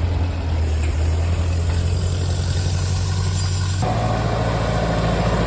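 1948 Ferguson TE20 tractor's four-cylinder engine idling steadily. The engine note changes abruptly about four seconds in.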